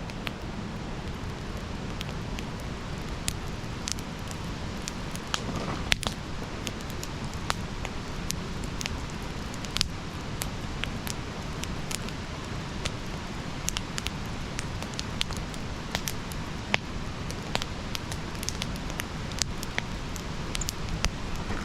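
Wood fire burning: a steady low hiss and rumble with sharp irregular crackles and pops from the burning wood.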